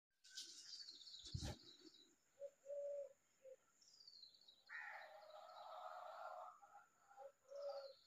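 Faint bird calls: high chirps that slide downward, several short low hooting notes, and a raspy call lasting about two seconds in the middle. A brief knock comes about a second and a half in.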